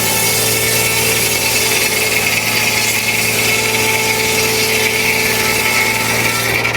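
Frick No. 1 circular sawmill cutting a log: the blade's steady, loud rasp and hiss over the constant drone of the mill running. Near the end the high hiss falls away as the cut finishes.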